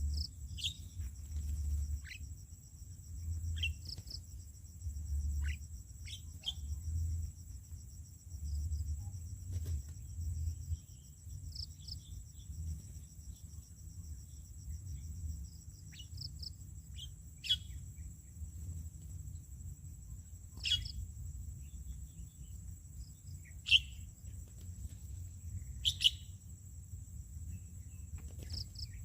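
Birds giving short, sharp chirps at irregular intervals, several falling quickly in pitch, the loudest two near the end. A steady high insect drone runs underneath, with a low uneven rumble.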